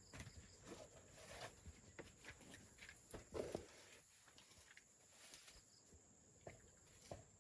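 Near silence with faint, scattered taps and rustles.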